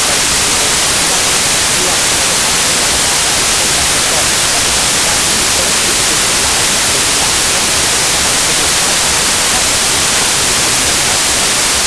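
Loud, steady white-noise hiss like television static, even throughout and strongest in the treble.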